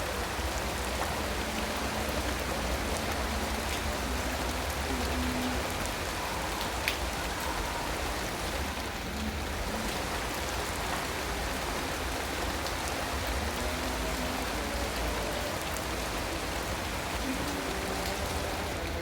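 Steady rain falling, an even hiss with one sharper drop or tick about seven seconds in.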